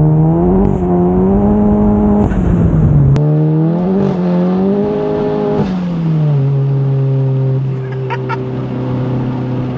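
MK7 GTI's turbocharged four-cylinder, fitted with an IS38+ turbo, pulling hard under full throttle. The engine pitch climbs, breaks briefly for a gear change between two and three seconds in, and climbs again. Near six seconds the throttle comes off and the engine settles to a steady cruise.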